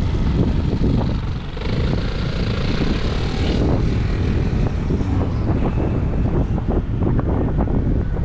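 Wind buffeting the microphone of a moving bicycle rider, a steady low rumble. From about one and a half seconds in, for about two seconds, a brighter rushing noise with a faint steady tone joins it.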